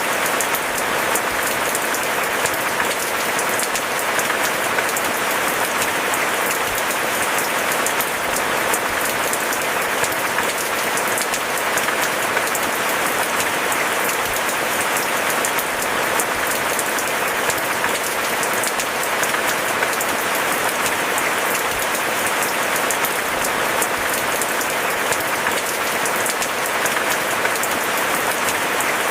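Steady rain falling, a dense, even patter of many drops with no letup.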